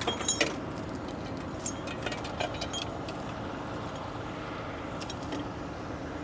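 Metal chain clinking and rattling in short scattered bursts as rigging chains are handled, over a steady running engine.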